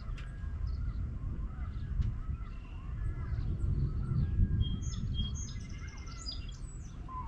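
Birds chirping in short scattered calls, busiest about five to six seconds in, over a low rumbling noise.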